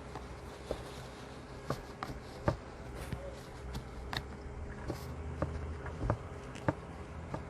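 Scattered light clicks and taps from handling a plastic tub lined with wet paper towels, over a faint low steady hum.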